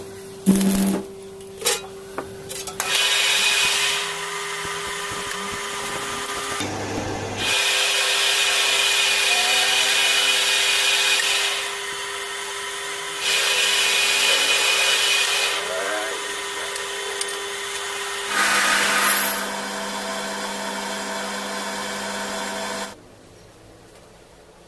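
A workshop power tool running with a steady hum, getting louder in several stretches of a few seconds each as it works a part, then stopping near the end.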